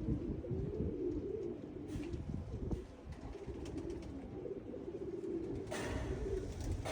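Domestic pigeons cooing, a low warbling coo that goes on throughout, with a brief rustling noise near the end.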